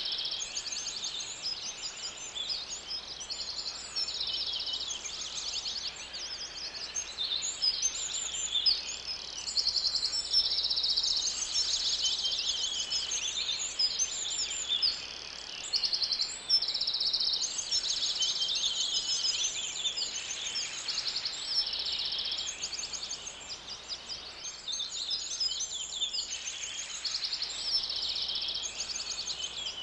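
Bird chirping almost without pause: quick, high-pitched trilled chirps following one another.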